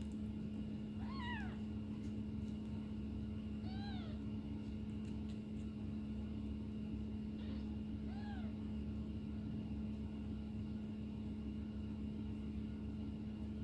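Four-week-old kittens mewing: three short, high mews that rise and fall, about a second, four and eight seconds in, over a steady low hum.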